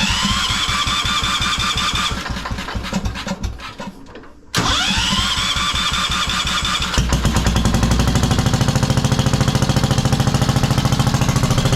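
10 hp Kohler single-cylinder engine of a 1973 Wheel Horse tractor being cranked by its starter, each try opening with a rising whine, twice. On the second try it catches about seven seconds in and runs with a steady, rapid, even beat. It is being restarted after running out of gas.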